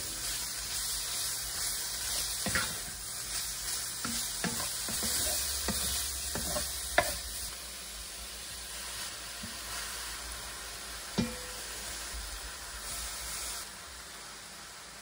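Pork belly cubes sizzling and frying in a pan while a spatula stirs them, with a few sharp knocks of the utensil against the pan. The sizzle dies down near the end.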